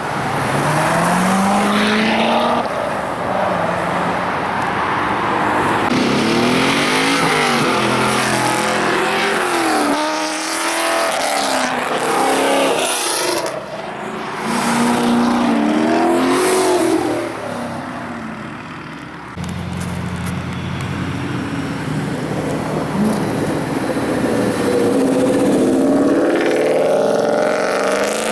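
Muscle car engines revving and accelerating hard in a string of short clips, the engine pitch climbing and dropping again and again, with abrupt changes from one car to the next.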